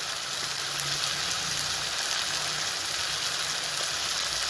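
Onion-tomato masala frying in hot oil in a pan, a steady sizzle.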